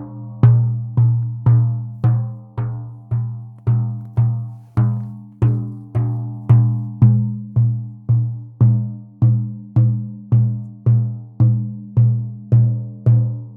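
Frame drum (buben) beaten in a steady, even rhythm, just under two strokes a second, each stroke leaving a low, resonant boom that rings out before the next.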